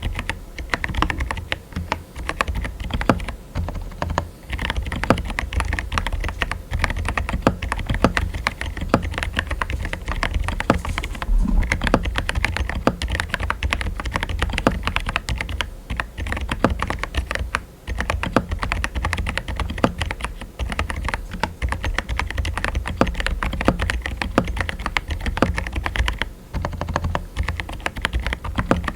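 Typing on a mechanical keyboard fitted with Pink Salt silent tactile switches: a fast, steady stream of keystrokes, broken by a few brief pauses.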